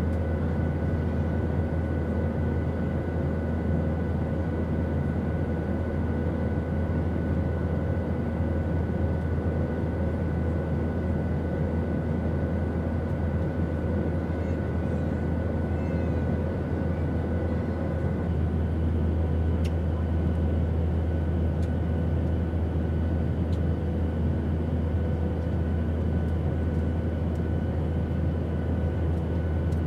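Steady airplane noise in flight: a constant deep rumble with faint, steady whining tones above it. A slightly higher tone joins about eighteen seconds in.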